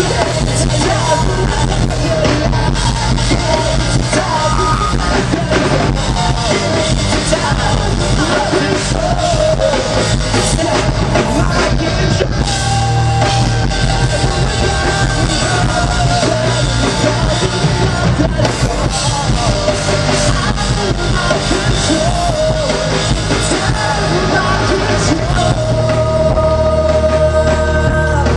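Rock band playing live at full volume, with a drum kit and sung vocals over the band; a note is held near the end.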